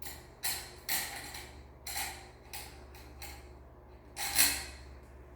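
Irregular sharp clicks and knocks from hand work on fan hardware, about seven in five seconds, the loudest near the end, over a low steady hum.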